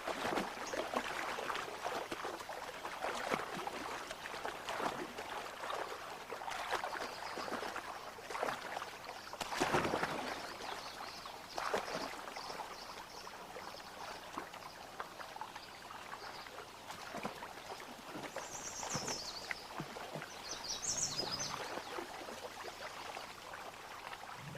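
Water splashing irregularly as a wounded bison and attacking wolves struggle through shallow water, with a louder splash about ten seconds in.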